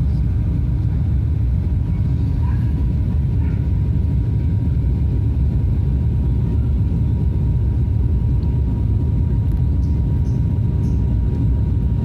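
Steady cabin drone of an ATR 72 turboprop airliner in flight: a deep, even engine and propeller rumble with a faint steady whine above it.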